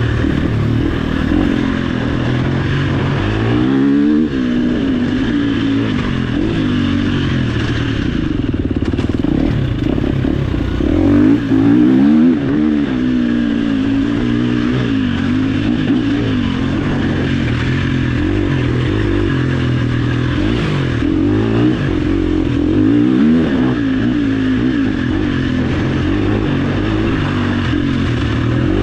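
Off-road dirt bike engine under load, its pitch rising and falling again and again as the throttle is worked and the gears change.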